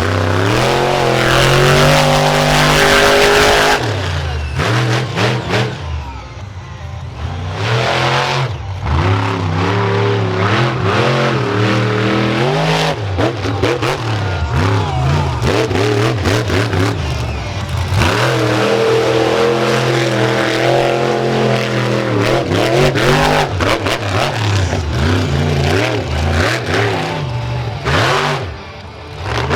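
Monster truck engine revving hard, its pitch climbing and falling over and over, with a few short drops off the throttle.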